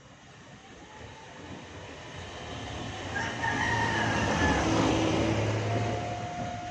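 A rooster crows once, about three seconds in, over a rumble that swells and then eases off.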